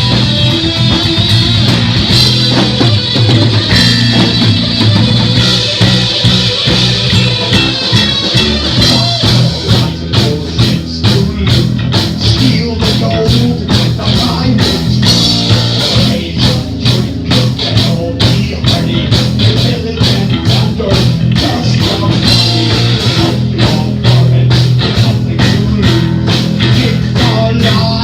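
Heavy metal band playing live and loud: distorted electric guitar, bass and drum kit, with the drums settling into a fast, steady beat about ten seconds in. An instrumental stretch with no vocals.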